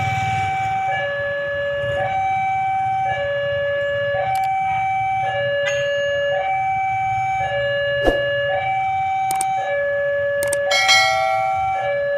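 Railway level-crossing warning alarm sounding a steady two-tone cycle, switching between a higher and a lower note about once a second. A low rumble runs underneath, and two sharp knocks come in the last few seconds.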